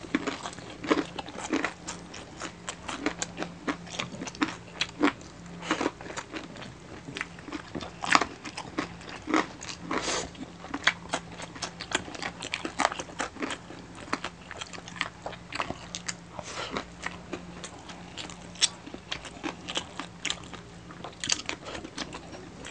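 Two people chewing and biting into crispy pata, the deep-fried pork knuckle with crackling skin, making close, dense, irregular crunches and wet mouth sounds. A faint steady low hum lies underneath.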